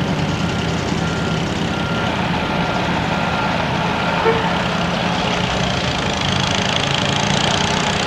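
Truck and car engines running in slow street traffic, with a faint backup alarm beeping at an even pace through the first half.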